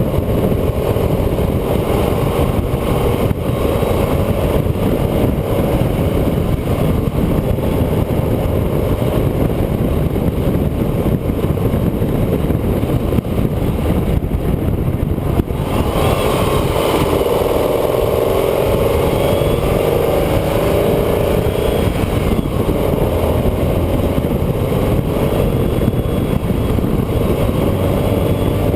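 Onboard sound of a road vehicle driving: an engine running under changing throttle, its pitch shifting, over loud steady wind and road noise. The sound dips briefly about halfway through.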